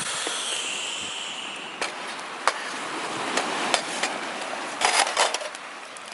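A steady hiss with scattered sharp clicks and knocks, several close together about five seconds in.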